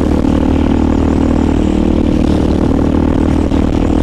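Motorcycle engine running at a steady pace while riding, with a steady, even hum and no revving.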